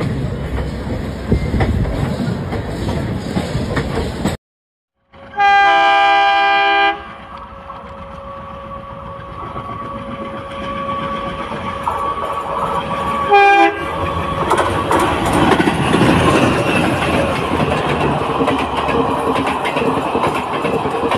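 Indian Railways passenger trains: wheels rumbling and clattering on the rails as a train runs alongside. After a short break, a locomotive horn sounds one loud blast of about a second and a half, then a short toot some six seconds later, and the noise of a train passing at speed builds again.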